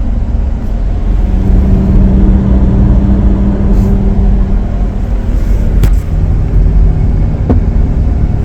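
2014 Chrysler Town & Country minivan on the move, a steady hum over low road rumble, dropping slightly in pitch about five seconds in. The hum tracks road speed rather than engine speed, the sign of a worn front wheel bearing, which the owner is pretty sure is the cause.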